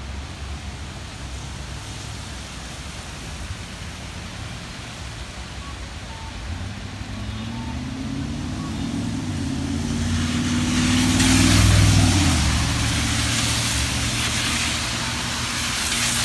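A motor vehicle drives past close by. Its engine note rises as it accelerates and approaches, with tyre hiss swelling to its loudest about three-quarters of the way in, then eases off over a low hum of street traffic.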